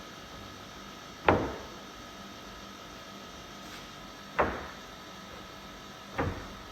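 Three sharp knocks over a steady background hum: the first, and loudest, about a second in, the next about three seconds later, and a slightly weaker one near the end.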